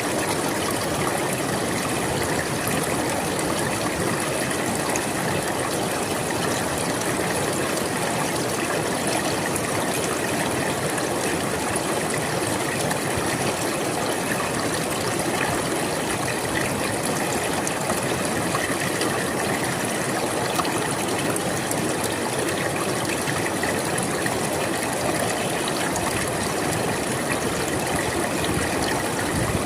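River water flowing over stones in a steady, even rush with a fine trickling texture.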